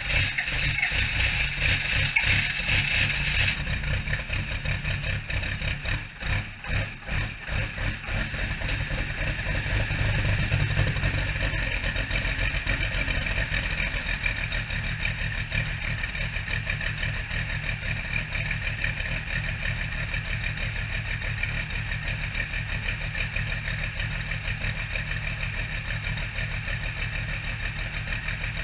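12-valve Cummins straight-six diesel cold-starting on its own, without its grid heater or block heater plugged in. A higher hiss or whine stops a few seconds in. The engine then fires unevenly for several seconds, its loudness dipping and surging, before it settles into a steady diesel idle.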